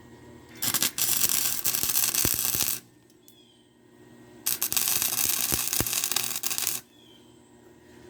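Electric arc welder laying two short welds on steel pipe, each a crackling, sputtering arc of about two seconds with a pause between them. Faint bird chirps can be heard in the quiet gaps.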